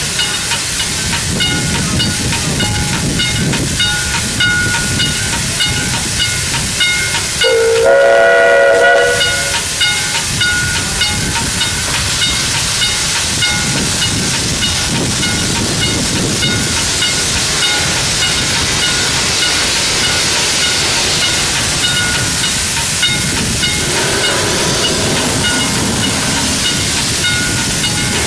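Steam locomotive running with a steady hiss of steam and an even rhythmic beat. About eight seconds in there is one whistle blast of a second and a half that slides up in pitch as it opens.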